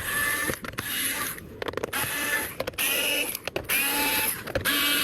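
A screwdriver working out the screws of an instrument cluster casing: about six short whirring bursts, each under a second, with brief pauses between them.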